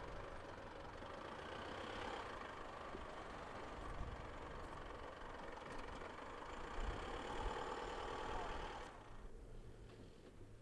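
An engine running steadily, which drops away about nine seconds in.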